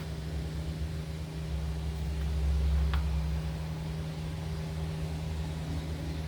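Steady low mechanical hum of a machine running in the background, with one faint click about three seconds in.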